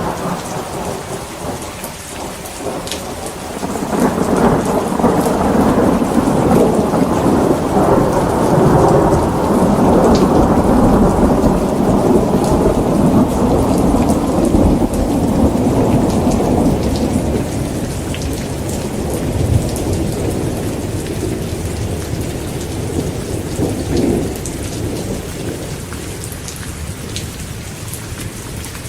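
Heavy rain falling steadily, with a long roll of thunder that swells about four seconds in and slowly dies away over some twenty seconds.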